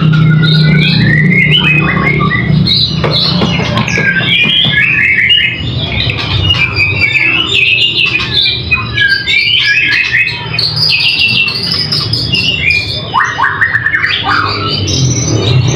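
Caged songbird singing a long, rapidly changing contest song of chirps, trills and whistled phrases, packed with mimicked calls of other birds, over a steady low hum.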